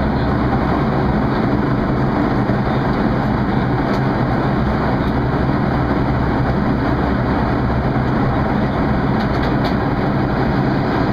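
Steady engine and rushing-air noise heard inside the cabin of a Boeing 737-300 airliner in flight after take-off, an even noise with a low hum and no change in level.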